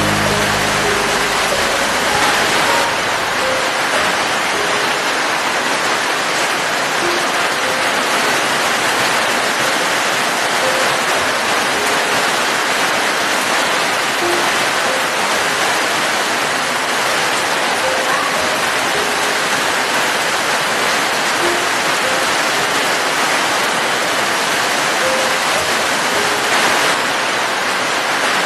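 Steady rain falling, an even hiss of drops. A low rumble underneath fades out in the first few seconds, and faint short tones sound here and there.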